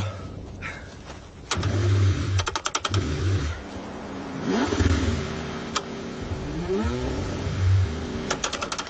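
Cold car engine being cranked over and over: bursts of low engine noise that rise and fall in pitch as it briefly catches, with two quick runs of rapid cranking pulses.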